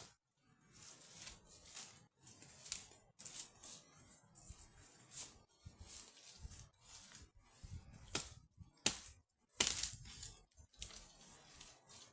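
Irregular rustling and crackling of dry leaves and twigs, a dozen or so short crunches with a louder one about ten seconds in.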